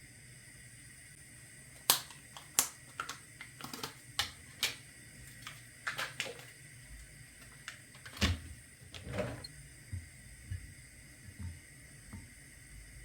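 A run of about a dozen irregular sharp clicks and knocks, as of hard objects being handled and set down, from about two seconds in until just past nine seconds.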